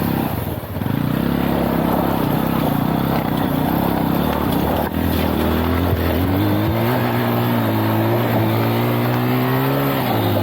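Lifan Xpect motorcycle engine running under load off-road. The revs hold steady at first, climb slowly over the last few seconds, then fall away right at the end.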